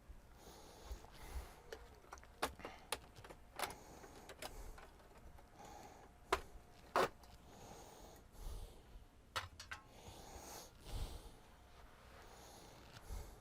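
Faint, irregular clicks and knocks of hands handling the parts of a disassembled LCD TV, the two loudest about six and seven seconds in.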